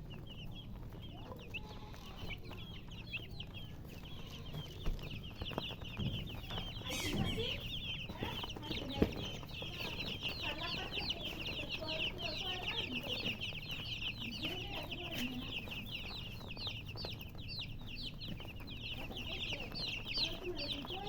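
A brood of baby chicks peeping continuously: many short, high chirps overlapping, growing denser after about six seconds, with a hen's lower clucks now and then.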